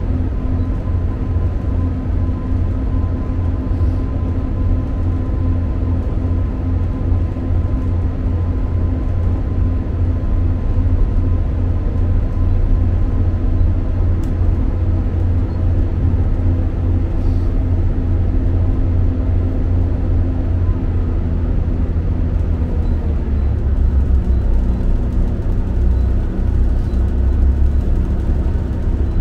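Cabin noise inside a diesel multiple unit travelling at speed: a steady low engine drone with a few humming tones over the rush of the wheels on the rails. The low drone shifts in pitch about three-quarters of the way through.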